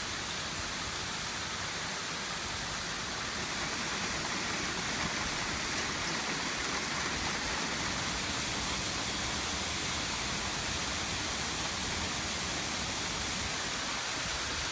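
Intense hailstorm: hail and rain pelting down in a dense, steady noise, growing slightly louder about four seconds in.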